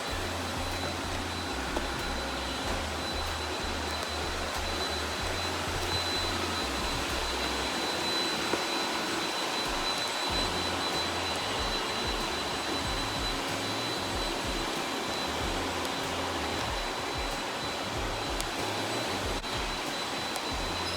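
Robot vacuum cleaner running steadily, a broad whirring with a thin high whine, and a low hum that comes and goes in steps.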